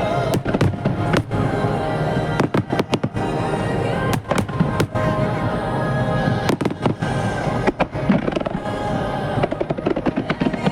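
Aerial firework shells bursting in rapid, overlapping bangs, several a second, during a mass finale barrage. Music plays steadily underneath.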